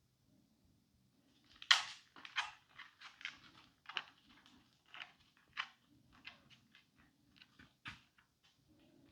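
Dog chewing and gnawing: a German wire-haired pointer making irregular wet crunches and clicks of its teeth, starting about two seconds in and continuing in uneven bites.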